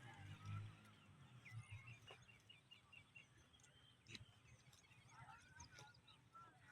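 Faint birds chirping: a quick run of about eight short high notes a second and a half in, then more chirps five to six seconds in, with a couple of sharp clicks between.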